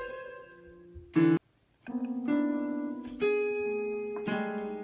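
Piano keys pressed, sounding single notes and clusters of notes that ring on, with a short break about a second and a half in.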